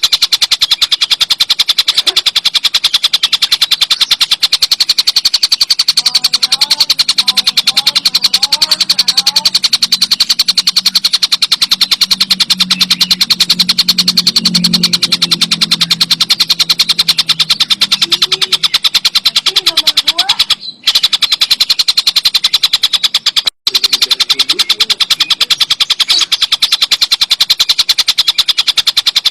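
Tengkek buto kingfisher calling in a loud, continuous rapid-fire chatter of harsh repeated notes. The run breaks off twice for an instant near the end.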